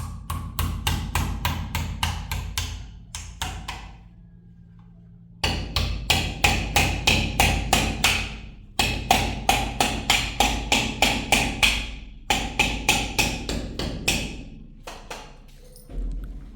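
Rapid, evenly spaced hammer blows, about four a second, in several runs broken by short pauses, over a steady low machine hum.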